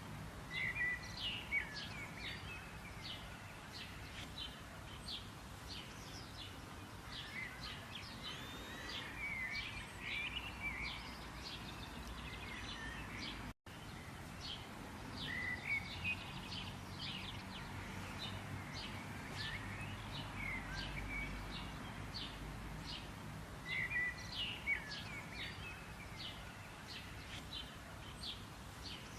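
Small birds chirping and trilling in short, quick calls over a low steady background rumble, with a brief cut to silence about halfway through.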